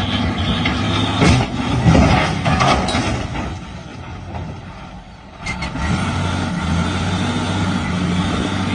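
Heavy truck engine running, with a few brief knocks in the first three seconds. It fades for a moment about four to five seconds in, then returns as a steady hum.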